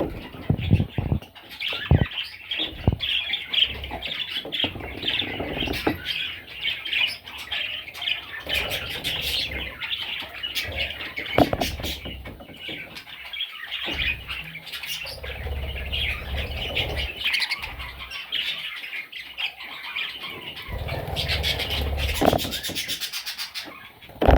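Budgerigars chirping and squawking continuously in a dense chatter, with scattered knocks and low rumbling handling noise.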